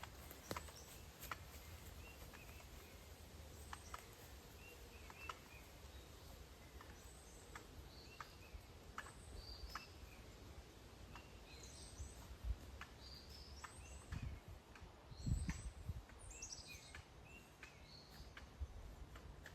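Birds chirping with many short, high calls, over faint scattered clicks. A dull low thump about three-quarters of the way through is the loudest sound.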